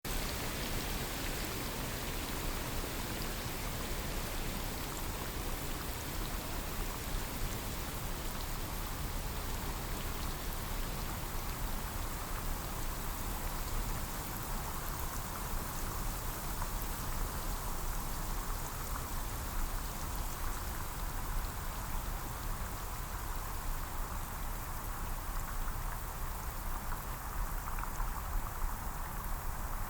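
Steady rain falling on forest foliage, a continuous patter of raindrops on leaves.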